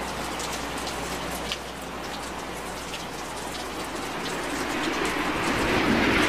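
Rain pattering on a vehicle's windscreen, with many small drop impacts over a steady hiss. Road and vehicle noise swells louder in the last second or so.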